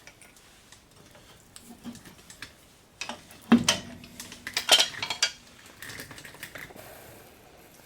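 Metal clinks and clanks of hand tools and parts being worked on a truck's front drum-brake hub. There are light scattered taps, then a cluster of loud metallic strikes between about three and a half and five seconds in, the first of which rings briefly.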